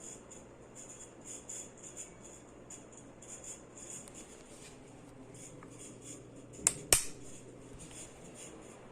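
Primavera Tropical ceiling fan running, with a steady low hum and a light, uneven jingling rattle. Two sharp clicks come close together about seven seconds in.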